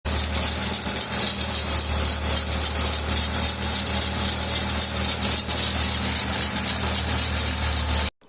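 BMW M52B28 2.8-litre straight-six running with a steady high whistle and rattling crackle from the accessory belt drive, the sign of a failed belt tensioner pulley, among other faults. The sound cuts off suddenly near the end.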